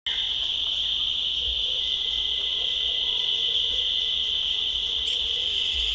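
Steady, unbroken trilling chorus of insects in a tropical forest at night, high-pitched and even throughout.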